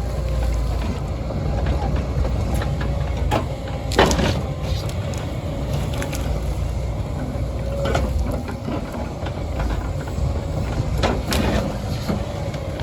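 Heavy diesel forestry machinery running steadily, with several sharp cracks and snaps scattered through, the loudest about four seconds in.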